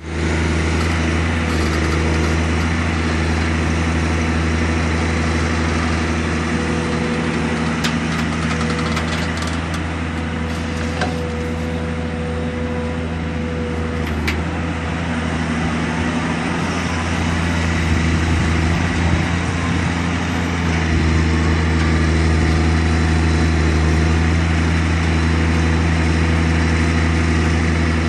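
Excavator engine running steadily, with a few sharp clicks and a faint whine between about eight and fourteen seconds in, and getting slightly louder about two-thirds of the way through.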